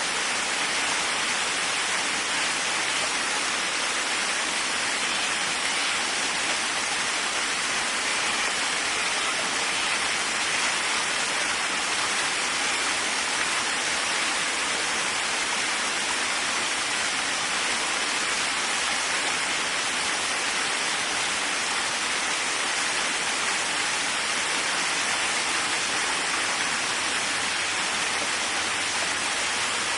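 Waterfall: water falling and splashing in a steady, even rush, with most of its weight in the middle and upper range and little low rumble.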